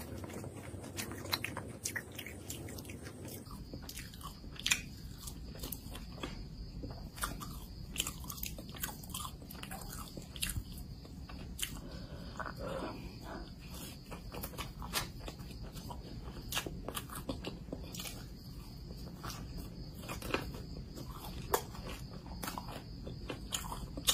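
Close-up mouth sounds of someone biting and chewing fried samosas: the crisp pastry crunching in irregular sharp clicks, with wet chewing between bites.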